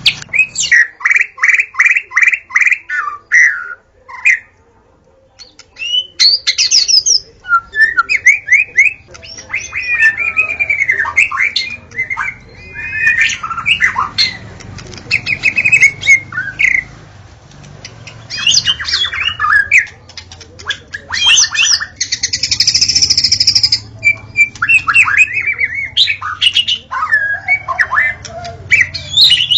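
White-rumped shama (murai batu) singing a long, varied song. It mixes fast runs of repeated notes, whistled glides and harsh chattering calls, pauses briefly about four seconds in, and gives a longer harsh, buzzy note about two-thirds of the way through.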